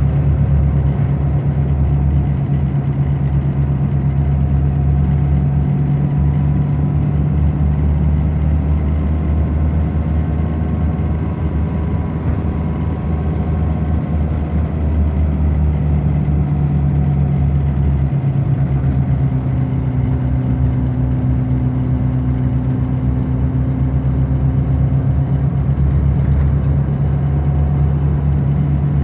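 Scania K94 bus's DC9 five-cylinder diesel running steadily under way, with a low, continuous hum whose note shifts slightly about halfway through.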